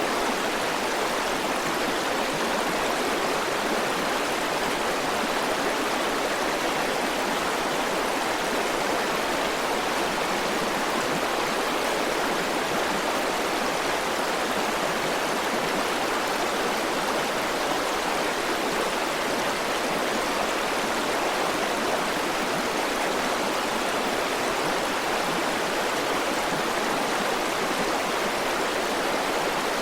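River water flowing over rocks in a steady, even rush, with no change in strength.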